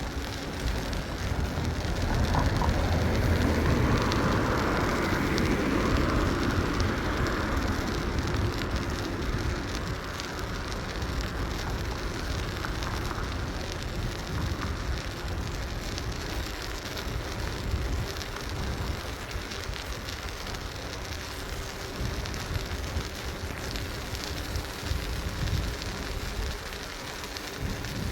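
Wind rushing over a phone microphone, with tyre and road noise, while riding a bicycle. The noise swells louder from about two seconds in and eases off after about nine seconds.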